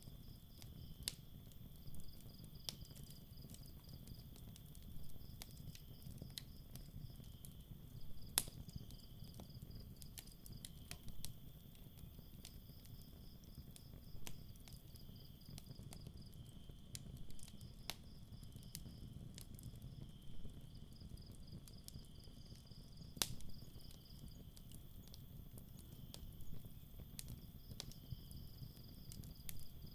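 Campfire crackling with scattered sharp pops, over crickets chirping in pulsed trills that come and go in bouts. Two louder pops stand out, about a third and three quarters of the way through, above a low steady rumble.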